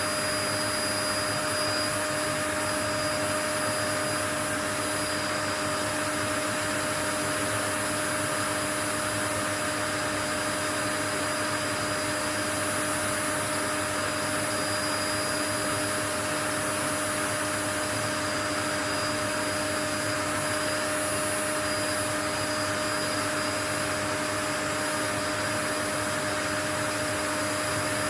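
Steady white noise, an even hiss with a few faint steady hums and whines in it, unchanging throughout.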